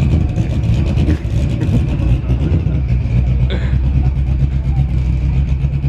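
A car engine running nearby with a steady, loud low rumble.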